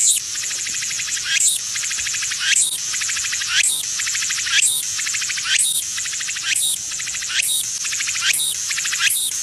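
Insects chirring in a dense, high, rapidly pulsed buzz, with a sweeping call that repeats about once a second.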